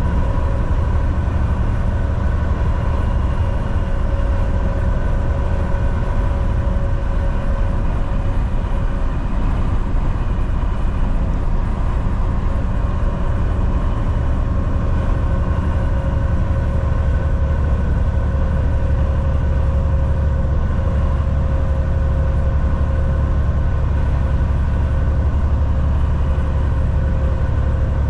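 Volvo VNL 760 semi truck cruising at highway speed: a steady deep engine and road rumble with a faint steady hum above it.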